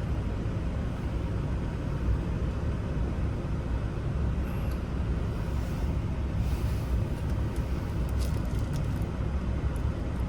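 A steady low rumble, with a few faint light clicks about eight seconds in.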